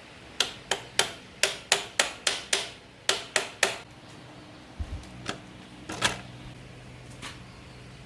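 A quick run of about a dozen sharp knocks or taps, roughly three a second, each with a short ring, stopping after about three and a half seconds, then three or four scattered single knocks.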